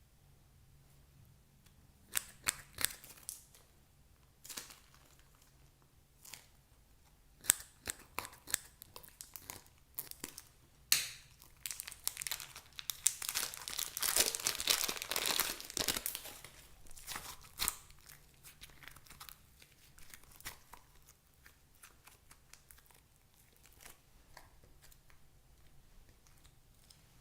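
Handling noises from slime-making: scattered clicks and taps, with several seconds of dense crinkling and tearing in the middle.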